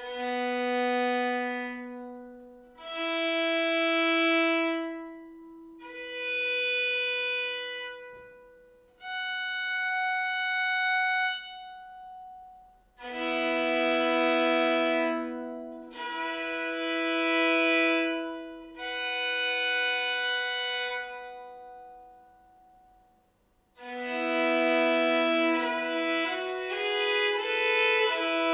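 Hardanger fiddle bowed: a series of long held double-stop chords, each a few seconds long with a short break between them, then about 24 s in a faster, continuous melody begins.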